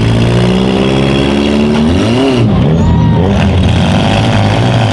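Several small-car demolition derby engines running hard at once. One revs up and drops back about two seconds in.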